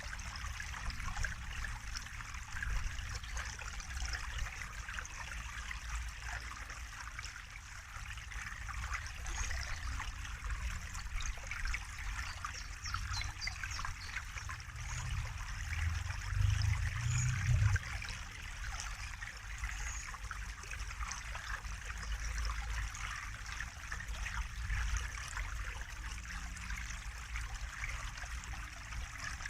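Water trickling and splashing steadily, like a small stream, over a low rumble that swells for a couple of seconds about halfway through.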